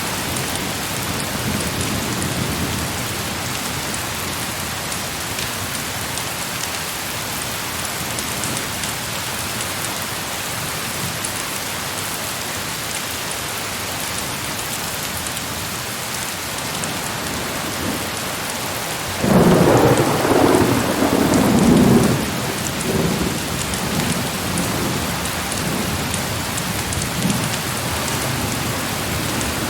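Heavy rain pouring steadily. About two-thirds of the way through, a loud clap of thunder breaks in and rumbles on for several seconds before fading back under the rain.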